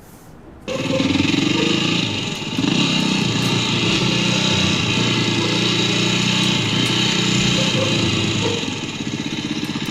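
Kawasaki KX250F single-cylinder four-stroke dirt bike engine running and revving, starting just under a second in and settling lower and steadier near the end.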